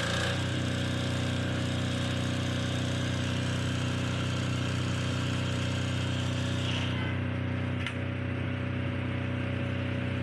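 Shark Pro 12 kVA air-cooled diesel generator engine running steadily just after starting, with a steady even hum. A brief click about eight seconds in.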